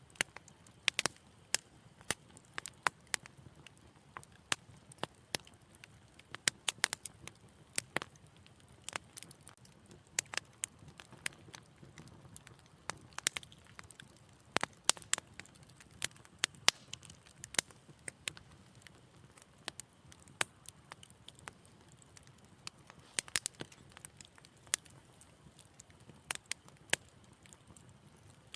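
Wood fire in a fireplace crackling, with sharp irregular pops and snaps over a faint low rush of the flames.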